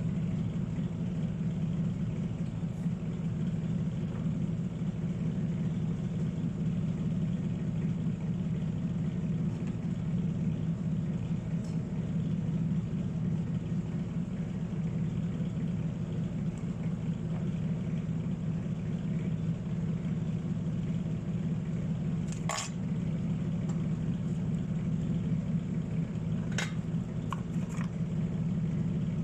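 Steady low hum of a running small motor, even throughout, with two sharp clicks in the last third.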